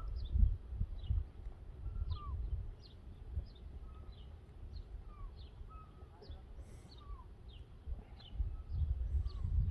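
Birds calling: a steady run of short, high, down-slurred chirps about twice a second, with occasional lower down-slurred calls. A low rumble sits underneath, loudest at the start and again near the end.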